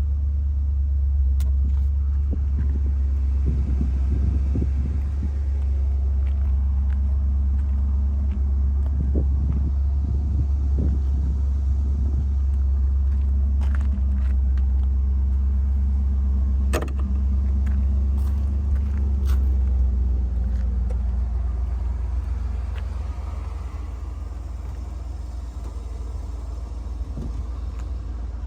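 1986 Pontiac Firebird Trans Am's V8 engine running steadily at idle with a low, even rumble, easing slightly quieter about two-thirds of the way through, with a few light clicks over it.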